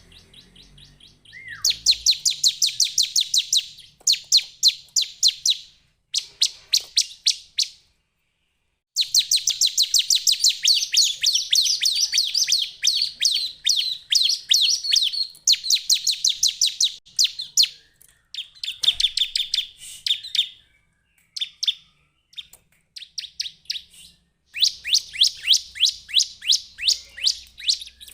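Bar-winged prinia calling: fast trains of sharp, high chirps, about ten a second, in bouts of two to six seconds with brief pauses between.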